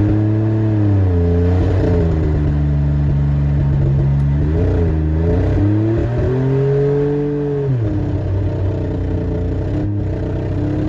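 2004 Dodge Dakota pickup's engine revving hard while the truck is driven. The revs rise and fall several times, then drop to a lower, steadier note about three-quarters of the way through.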